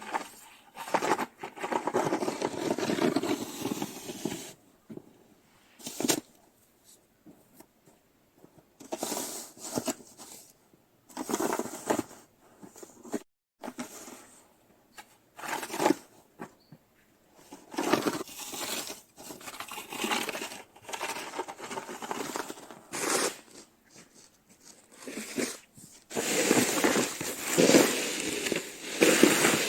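Snow being scraped and pushed with a shovel in repeated strokes, each a rasping scrape of a second or more, with a long, louder run of strokes near the end.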